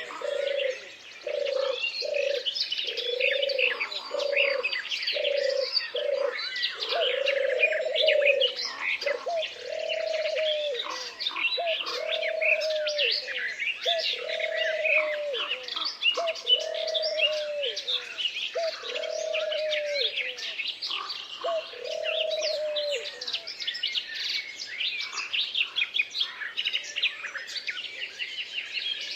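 A chorus of songbirds chirping and whistling over one another, with a lower bird call repeated about once a second that stops a few seconds before the end.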